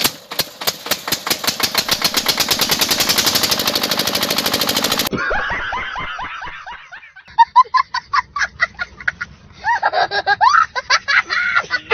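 A small generator engine running with a rapid, even putter of about ten beats a second, lasting about five seconds and cutting off abruptly. After that come voices laughing.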